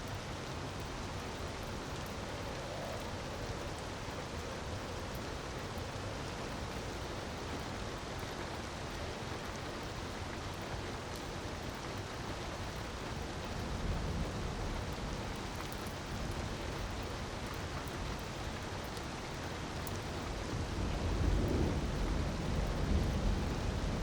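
Ambience mix of a steady rush of falling water with faint crackles of a wood fire. A low rumble swells about halfway through and again, louder, near the end.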